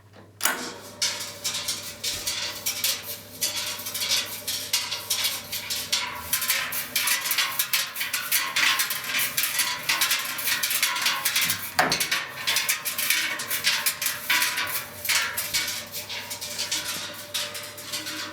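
Metal parts and tools clattering and rattling irregularly, with a sharp knock about twelve seconds in, as the washing machine's bearing assembly is worked on.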